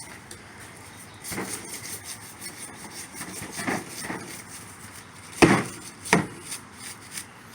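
An HVAC vacuum pump being turned over and handled during cleaning: scraping and rubbing, with several sharp knocks, the loudest about five and a half seconds in.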